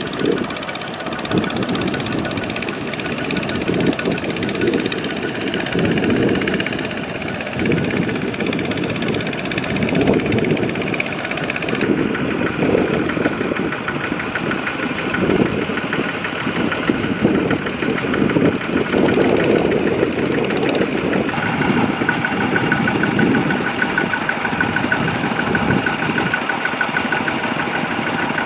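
Tractor diesel engine running steadily, with a clattering note; the sound changes character about twelve seconds in and again about twenty-one seconds in.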